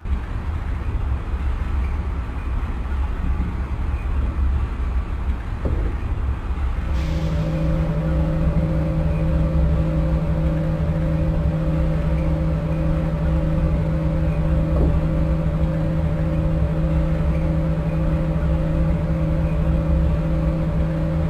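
Lisbon Metro ML90 subway train running, with a steady rumble of wheels and running gear. About seven seconds in, a steady hum sets in and holds.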